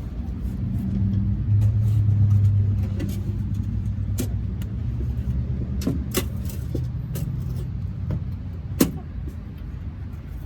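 A low motor-vehicle rumble that swells about two seconds in, with several sharp clicks over it.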